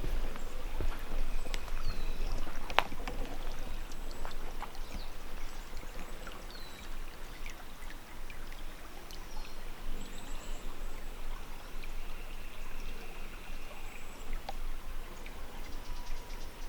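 Small stream running and trickling steadily, with a few short bird chirps over it.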